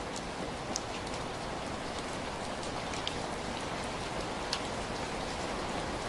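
Heavy rain falling: a steady, even hiss of rainfall, with a few sharper individual drop ticks standing out now and then.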